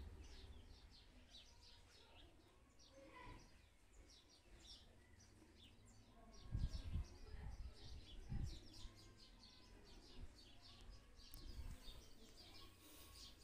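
Faint, rapid chirping of small birds throughout, with a few low thumps about halfway through.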